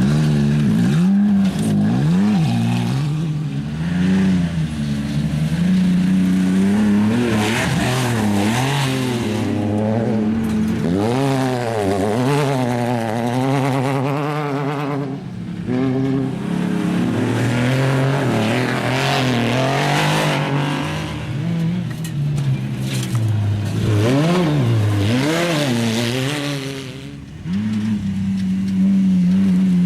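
Off-road race car and truck engines running hard, their pitch rising and falling again and again as the throttle is worked. A steadier engine drone holds near the start and again near the end, after a brief drop in level.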